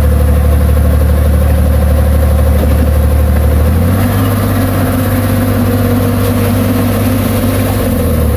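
Heavy diesel engine of earthmoving machinery running loud and steady, its pitch stepping up a little about four seconds in as engine speed rises.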